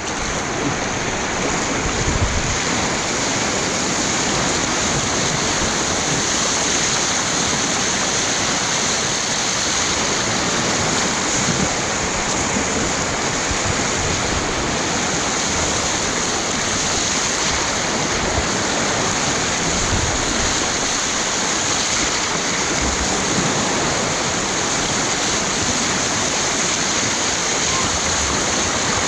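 Steady rush of whitewater from a river rapid and its standing surf wave, with a few faint low bumps.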